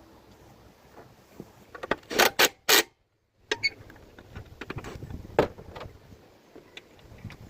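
Workshop handling noises during a lawnmower oil change: a quick run of loud knocks and rattles about two seconds in, then scattered light clicks and one sharp knock about five seconds in.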